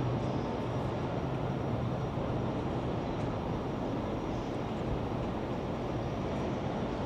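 Steady city street noise: a constant low rumble of traffic, with a low hum that fades away in the first couple of seconds as a vehicle passes.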